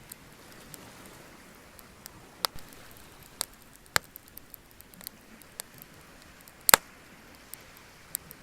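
Wood bonfire crackling: irregular sharp pops and snaps, a dozen or so, over a faint steady background, with the loudest double pop a little past two-thirds of the way in.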